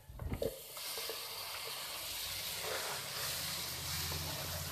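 Tomato paste sizzling as it hits hot oil and fried onion masala in a pan, a steady hiss that sets in under a second in after a couple of soft knocks, with a low hum underneath.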